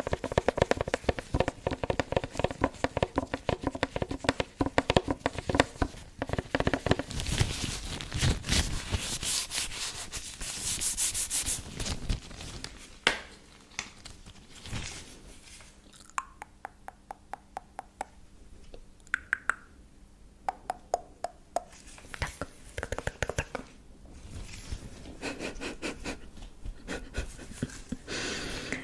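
Close-miked hand sounds for ASMR: palms and fingers rubbing together in fast crackling strokes, with a spell of smooth rubbing hiss, then sparser finger clicks and short rubs.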